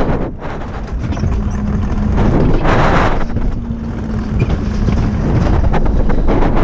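Moving vehicle rumbling steadily, with wind buffeting the microphone.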